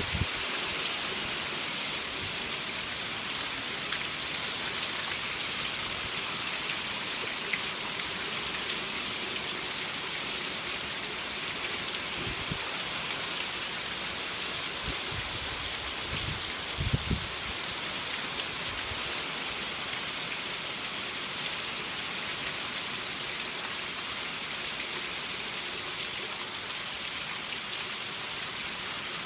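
Steady rain falling, an even hiss of drops on surfaces, with a few dull low thumps about halfway through.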